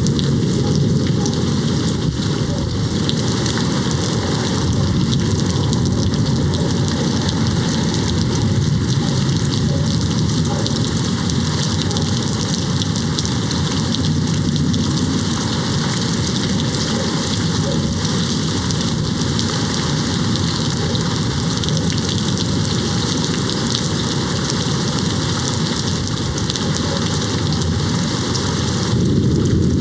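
Steady rain hitting a window: an even, unbroken hiss with no let-up.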